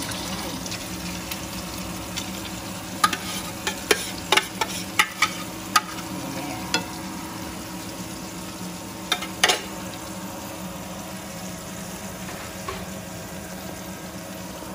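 Tuna and egg omelette mixture sizzling steadily as it fries in a nonstick pan. A utensil taps and scrapes against the pan in a quick string of clicks between about three and six seconds in, and twice more a little before the tenth second.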